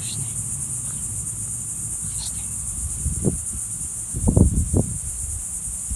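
Steady high-pitched buzz of an insect chorus, with a low rumble underneath and a cluster of louder low bumps a little after four seconds in.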